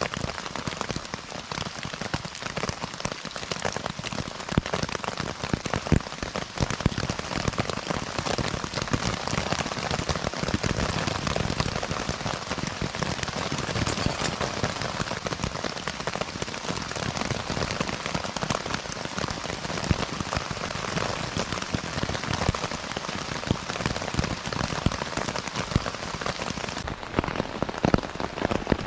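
Heavy rain pattering steadily on a tent's flysheet, heard from inside the tent: a dense, even drumming of countless drops.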